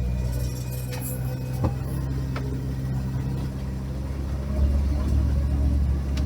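Off-road vehicle engine running with a steady low drone that swells louder and deeper about four and a half seconds in, as the engine is pushed harder. A single sharp knock sounds a little over a second and a half in.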